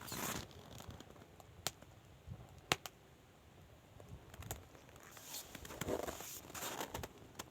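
Finnish candle, a split log burning from its centre, crackling with a few sharp, widely spaced pops and soft swells of flame noise.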